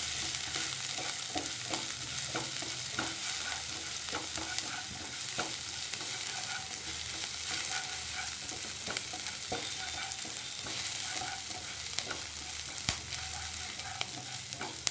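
Chopped garlic, ginger and green chilli sizzling in hot oil in a kadai, stirred with a spatula that scrapes and taps against the pan many times.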